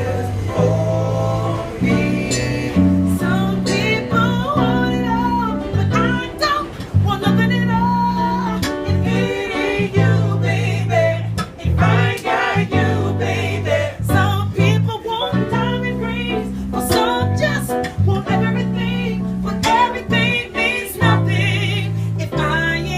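A song played on guitar with a singer: plucked and strummed guitar chords over a steady bass line, and a sung melody above them.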